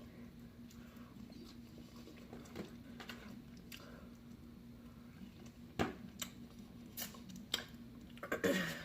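Close-miked chewing of chicken wings, with a few sharp mouth clicks and smacks in the second half, over a faint steady hum.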